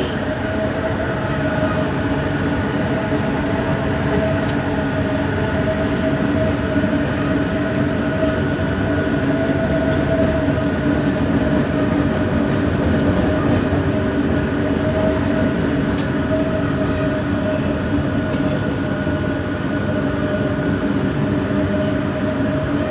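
Bombardier Innovia ART 200 metro train running between stations, heard from inside the car: a steady rumble with a constant hum-whine from its linear induction motors.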